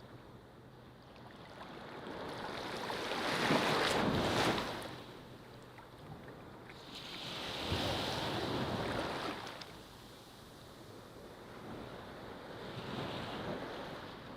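Ocean waves breaking on a beach: three swells of surf, the loudest about four seconds in, the others about eight and thirteen seconds in, with quieter washing between them.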